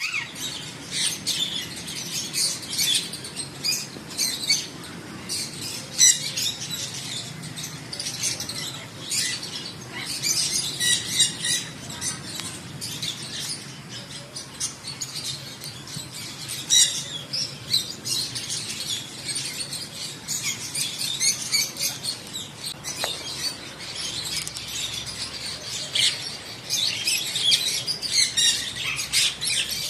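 A flock of small caged birds chirping and chattering continuously, many short high calls overlapping.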